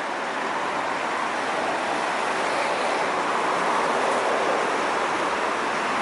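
Steady rushing noise of toll-road traffic, tyres and engines blended together, swelling a little about halfway through as vehicles pass.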